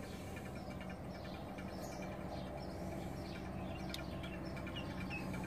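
Faint birds chirping a few times over a steady low hum.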